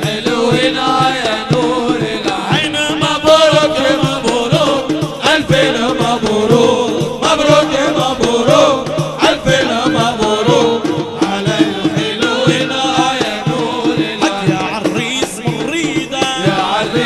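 Arabic wedding nasheed: sung, chant-like vocals over a steady, driving drum beat.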